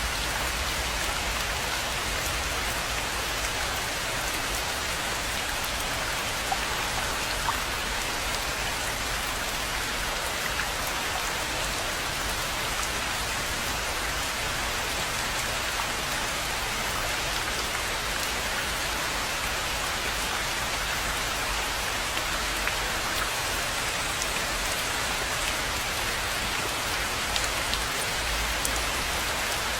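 Steady rain falling on a rainforest pond and its surroundings: an even hiss, with a few louder individual drops here and there.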